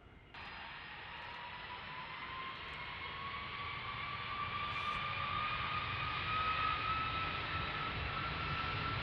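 Large jet airliner's engines whining and building up, the fan whine rising slowly in pitch as thrust increases for takeoff. The sound starts suddenly just after the beginning.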